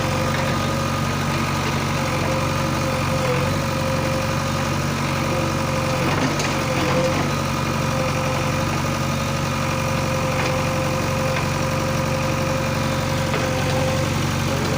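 Diesel engines of a JCB backhoe loader and tractor running steadily at low revs, with a steady whine over the engine note.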